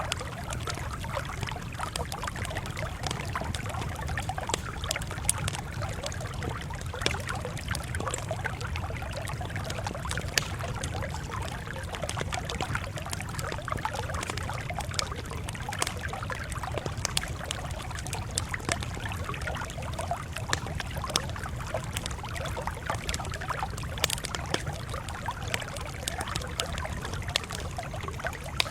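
Campfire crackling steadily, with frequent short sharp pops and snaps over a low, steady rumble.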